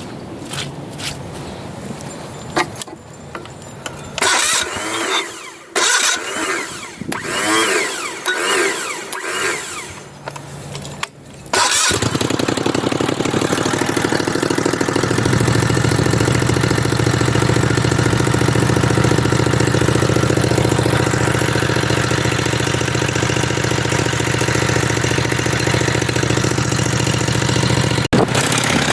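Homemade mini bike's V-twin engine starts suddenly about twelve seconds in, after some clicks and handling noises, then runs at a steady idle.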